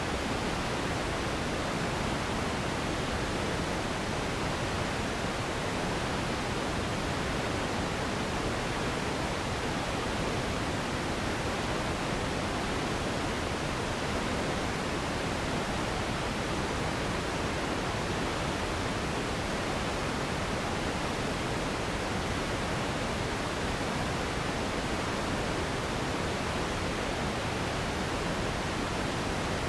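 Steady relaxing noise for sleep: an even, unbroken hiss with no rhythm or events, heavier in the low and middle range and softer in the highs, like pink noise.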